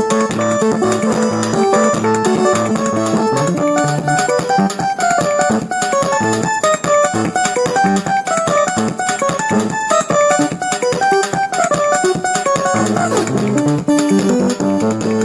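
Instrumental music played live: a quick melody of separate notes over a lower bass line.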